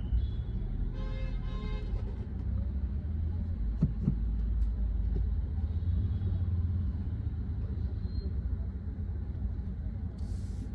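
Car driving in city traffic heard from inside, a steady low engine and road rumble. A short car horn sounds about a second in, and two quick knocks come about four seconds in.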